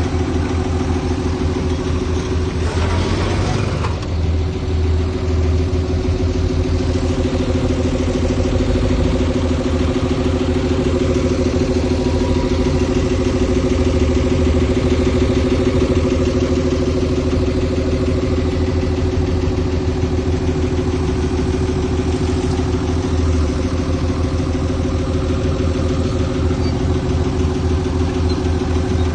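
Diesel engine of heavy earthmoving machinery running steadily with a constant pitch, and a brief rush of noise about three seconds in.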